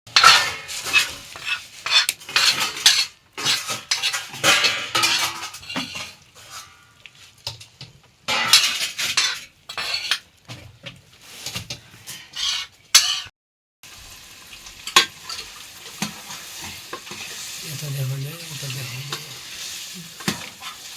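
Food frying in a pan while a metal spoon stirs it, scraping and clattering against the pan in bursts. After that the pan keeps sizzling steadily.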